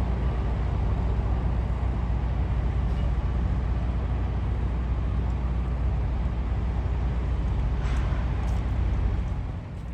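Steady low drone of an idling engine, with faint clicks about eight seconds in.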